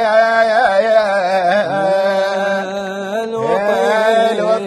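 A man singing an Iraqi abudhiyya lament, with long held notes and wavering vocal ornaments as he draws out the last line of the verse.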